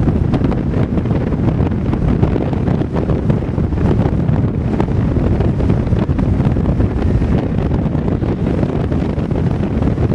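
Strong wind buffeting the microphone: a loud, steady rumbling roar with constant flutter and no let-up.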